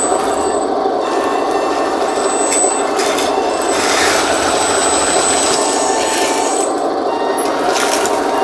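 A 1:14 scale RC hydraulic skid steer loader running steadily: its electric motors and hydraulic pump make a continuous hum, with a thin high whine that comes and goes.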